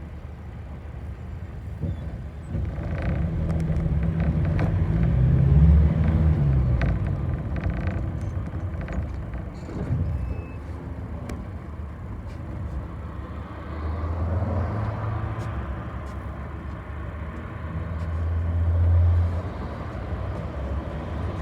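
City bus engine running and pulling away under acceleration, heard from inside the passenger cabin: its low note climbs twice, about two seconds in and again about fourteen seconds in, each time easing off. Short rattles and clicks sound over it.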